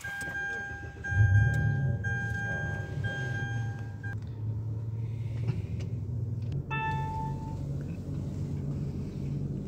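Mitsubishi SUV's engine starting about a second in and running steadily as the car pulls away. A steady electronic beep holds for about the first four seconds and cuts off, and a second, shorter beep comes about seven seconds in.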